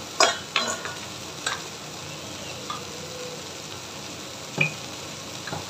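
Water spinach and dried shrimp sizzling steadily in a wok, with about six sharp clinks and knocks of a metal spoon against a steel bowl, the loudest just after the start and about four and a half seconds in.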